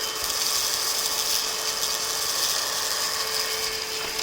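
Cordless stick vacuum's motor running steadily with a constant whine and airflow hiss, its floor-brush attachment fitted but its brushes not turning.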